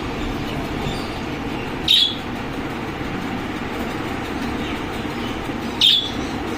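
Green parakeet giving two short, sharp squawks about four seconds apart, over a steady low rumble.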